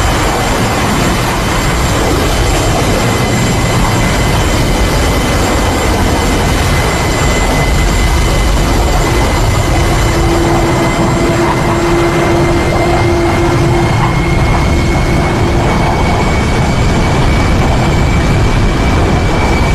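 Aircraft engines running: a steady loud roar with a thin high whine that rises slightly in pitch near the end.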